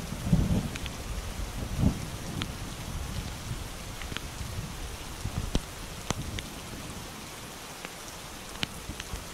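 Heavy rain falling on a pond, a steady hiss with scattered sharp ticks of drops striking close by, picked up on a GoPro's microphone. A low rumble of thunder dies away in the first two seconds.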